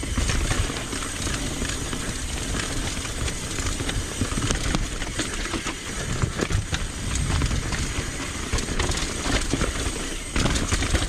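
Mountain bike rolling over a rough dirt trail: tyres rumbling, with constant small clicks and rattles from the bike, and heavy low rumble of wind on the microphone.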